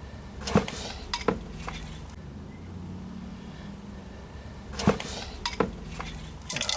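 Hard objects, metal-like, clinking and knocking together in a few separate sharp strikes with a short ring, with a quicker run of clinks near the end.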